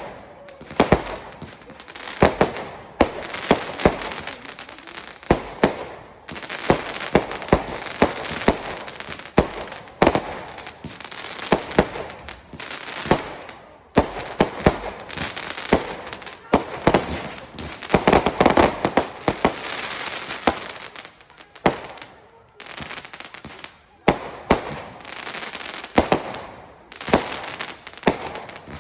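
Fireworks going off: a long run of sharp bangs and pops over steady crackling, easing off briefly twice before picking up again.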